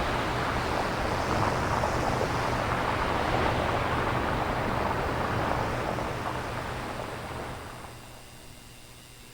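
Synthesized nature-sound noise from a synthesizer with no samples: a steady rushing hiss over a low hum. It fades out between about six and eight seconds in, leaving only a faint thin hiss.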